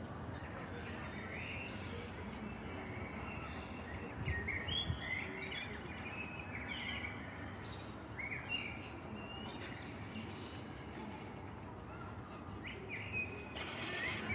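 Songbirds chirping and singing: short, quick chirps and brief phrases, some rising or falling, repeated irregularly over a steady background hiss.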